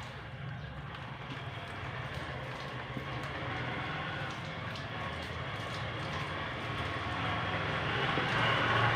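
A low motor hum with a steady hiss over it, growing gradually louder.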